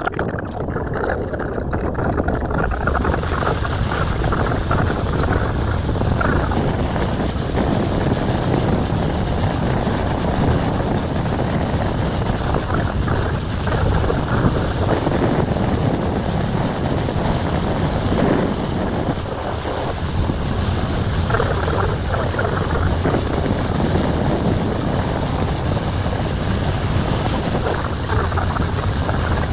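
Steady rushing noise of wind on the microphone mixed with the engine and water noise of a moving cruise boat.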